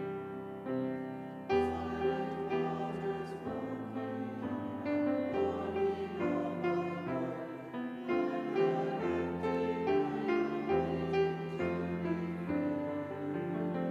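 Keyboard music playing slow, held chords that change about once a second, in the manner of a hymn accompaniment.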